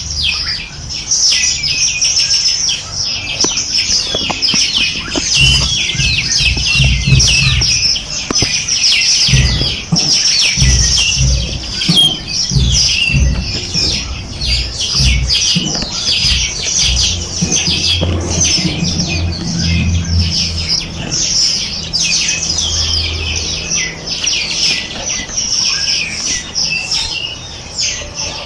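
A dense chorus of many small birds chirping and trilling at once, without a pause. Low rumbling thuds come and go underneath.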